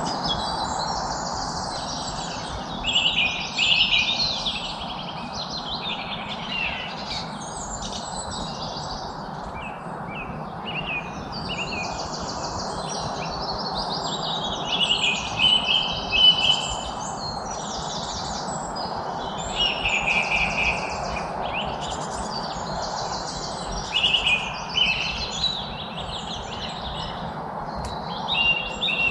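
Several songbirds chirping and singing, with overlapping short calls and rapid trills throughout, over a steady low background rush.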